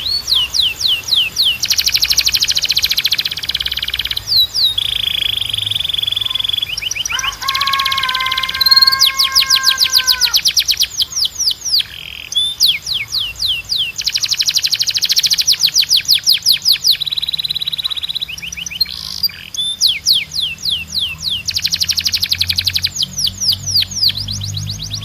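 Timbrado canary singing: long, fast trills of sharply falling chirps, with pauses between phrases and one lower held note partway through.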